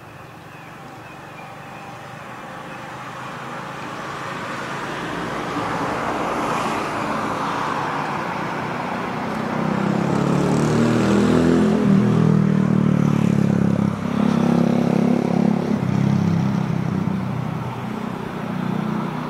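JR East 185 series electric express train approaching, its running noise growing steadily louder over the first ten seconds into a loud, deep rumble of wheels and motors that holds to the end.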